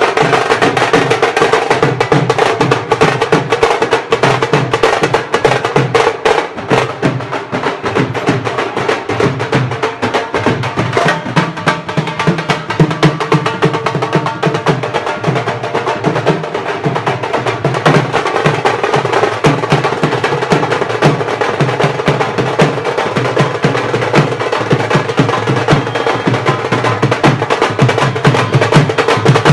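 Dhol drumming: a fast, continuous dance beat of dense, rapid drum strokes with no pauses.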